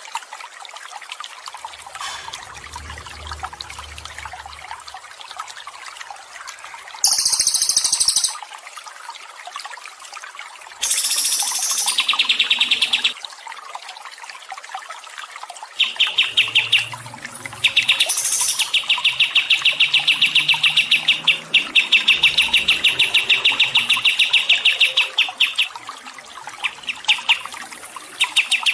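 Songbird calls over a steady trickle of water. Two short, harsh bursts of high sound come in the first half. From a little past halfway, a long trill of fast repeated high notes runs nearly unbroken.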